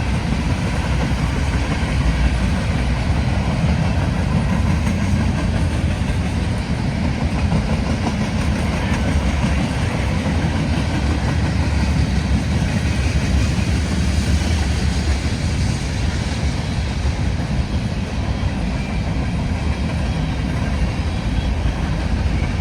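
Cars of a passing freight train rolling by on the rails: a steady, loud rumble of wheels on track.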